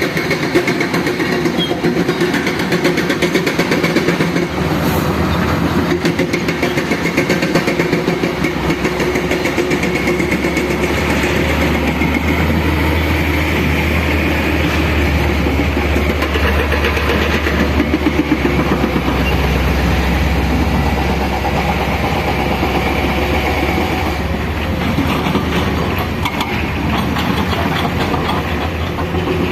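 Heavy diesel earthmoving machinery, an excavator and dump truck, working with a continuous clatter over a low engine rumble that grows louder through the middle stretch.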